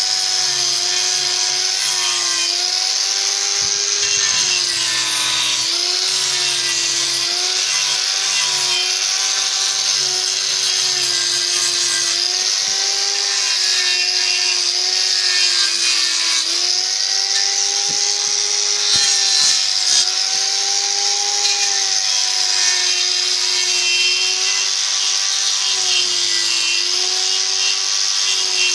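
Electric power tool cutting or shaping wood: a steady motor whine that sags in pitch and recovers again and again as the tool bites into the wood, over a continuous hiss from the cutting.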